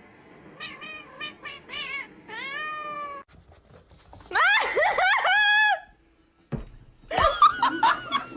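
A cat meowing over and over: a few short high mews, then a longer falling meow, then louder, wavering drawn-out meows.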